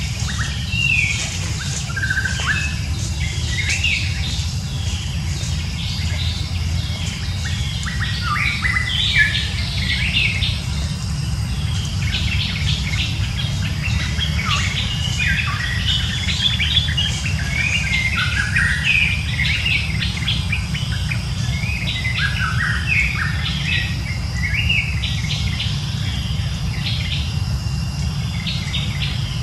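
Birds chirping and calling busily, many short quick notes overlapping, over a steady low rumble.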